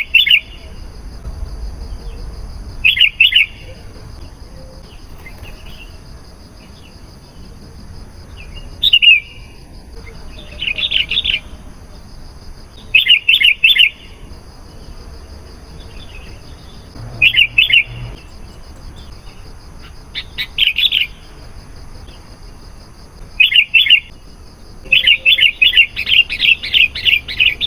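Sooty-headed bulbul (kutilang) song: short phrases of three to five quick whistled notes every few seconds, with a longer run of rapid notes near the end. A faint, steady, high-pitched whine runs underneath.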